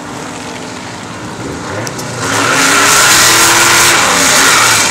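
A Mustang and an old Chevy drag car running at the start line, then launching about two seconds in, the sound jumping sharply in loudness as both engines rev up under full throttle.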